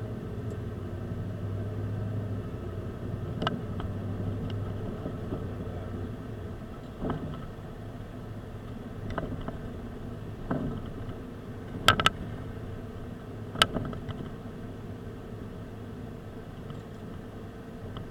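A car engine running with steady low road and engine noise. Several sharp knocks or bumps cut through it, two of them close together about two-thirds of the way in.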